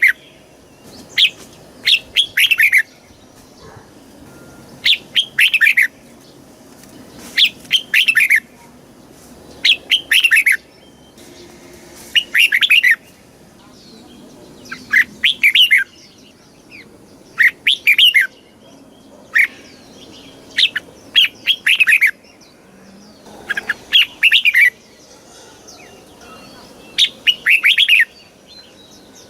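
Red-whiskered bulbul singing: short, bright, warbling phrases of quick notes, repeated about every two to three seconds.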